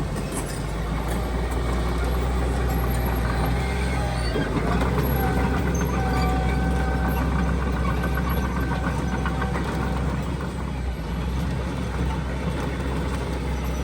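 Heavy diesel construction machinery running, a steady low engine drone. A steady high whine rides over it from about four to ten seconds in.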